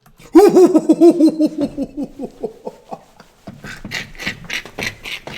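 A burst of laughter: rapid ha-ha pulses, loud at first, falling in pitch and trailing off over about two seconds. It is followed by a quieter run of quick clicks, about four a second.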